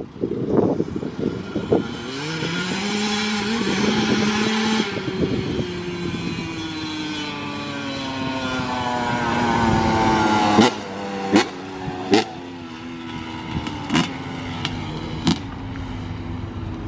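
Yamaha YZ125 two-stroke dirt bike engine revving up, then falling slowly in pitch, followed by several sharp knocks over a lower, steadier engine sound.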